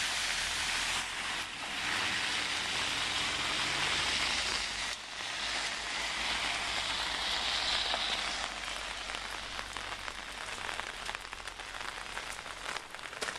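Heavy downpour, a dense steady hiss of rain; after about eight seconds it thins into a crackling patter of separate drops.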